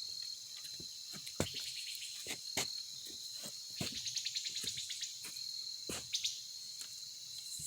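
Steady high-pitched trilling of insects, with a faster pulsing trill joining in around the middle. A few short sharp clicks sound over it.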